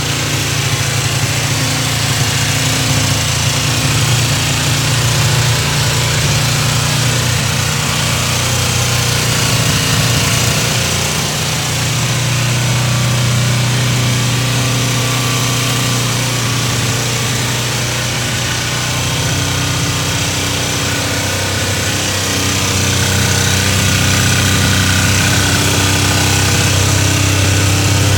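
Kawasaki ZZ-R250 (EX250H) 248 cc parallel-twin four-stroke engine idling with a steady hum, a little uneven in the first dozen seconds and slightly louder over the last few seconds.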